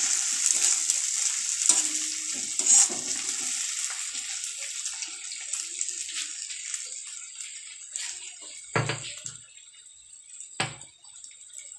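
Onions, garlic and ginger sizzling in hot oil in a kadai as they are stirred with a metal spatula. The sizzle dies down gradually, and near the end the spatula knocks twice against the pan.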